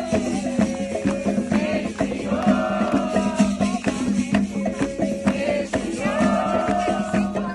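Candomblé ritual song: voices singing a repeating, falling melodic phrase over steady percussion with a shaken rattle.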